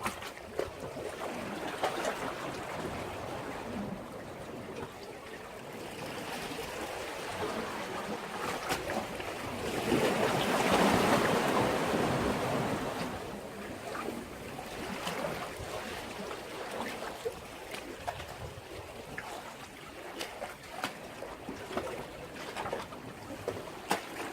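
Sea waves washing against a breakwater, one wave surging in louder about halfway through, with small splashes along the way.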